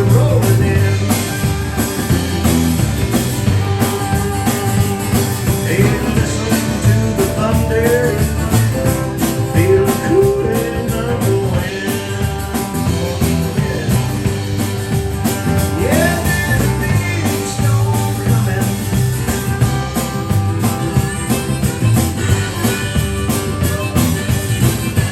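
Live country-rock band music: guitar and bass over a steady beat, with a lead line of sliding, bending notes.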